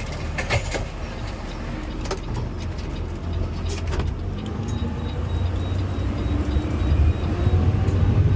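Garbage truck's diesel engine running, heard from inside the cab with the window up. A steady low rumble that builds over the last second or so, with a few sharp clicks in the first seconds.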